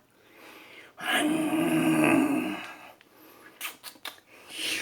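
A man's voice imitating a tiger's roar: one loud, rough, drawn-out roar starting about a second in and lasting about a second and a half. A few short clicks follow near the end.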